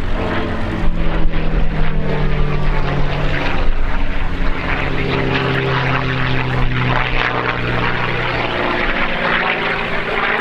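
P-51D Mustang's Packard-built V-12 Merlin engine running loud and steady under power, its note dropping in pitch about four seconds in.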